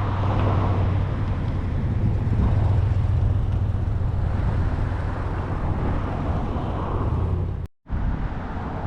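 A car's engine running with a steady low drone, amid outdoor road noise. The sound drops out abruptly for a moment near the end, then resumes.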